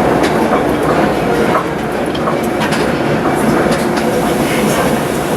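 Núria rack railway train running downhill: a steady rumble of wheels and running gear on the track, with scattered clicks and knocks.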